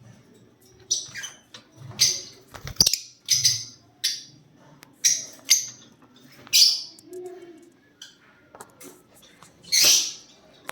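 Lovebirds calling: a string of about a dozen short, sharp, high-pitched chirps, the loudest one near the end.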